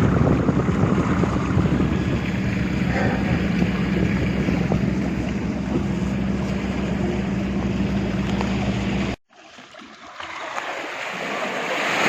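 Motorboat engine running at a steady pitch under the rush of wind and water. It cuts off abruptly about nine seconds in, and a quieter rush of water builds up after it.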